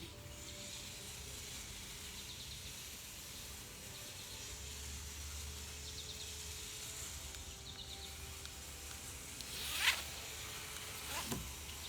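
Nylon tie-down strap pulled quickly through a cam buckle, a short rising zip about ten seconds in, followed by a smaller one a second later, over a faint steady background.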